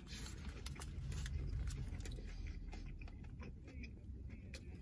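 A person bites into a burger with lettuce on a sesame bun and chews the mouthful with the mouth closed: soft, wet chewing with many small clicks.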